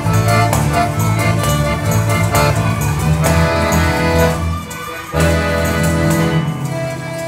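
Live folk-style ensemble music: accordion holding sustained chords over acoustic guitar, with hand percussion such as tambourines, claves and maracas striking a steady rhythm. The music drops briefly about two-thirds of the way through, then comes back in.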